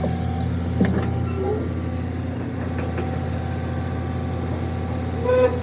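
A vehicle engine idling steadily, with a couple of short knocks about a second in and a brief pitched sound near the end.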